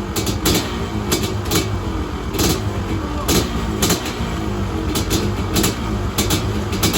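Several dirt bike engines, a mix of two-strokes and four-strokes including a CR500 two-stroke, running together and revving up and down. Sharp cracks break through every half second or so.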